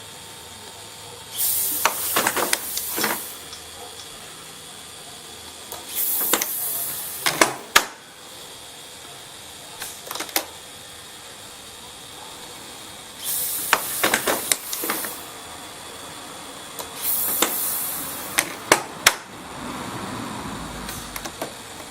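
Pneumatic undercarriage retracts running at 65 psi (just over 4 bar) being cycled. There are four bursts of compressed-air hiss, each with sharp clicks and knocks as the legs move up or down.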